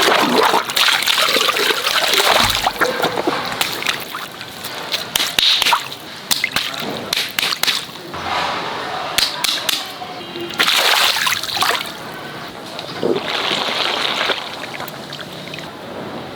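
Water splashing and sloshing in repeated surges, with sharp clicks and snaps in between.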